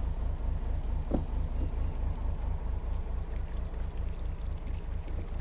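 A boat's engine running steadily, a low, even rhythmic throb, under a steady hiss. A short falling squeak sounds about a second in.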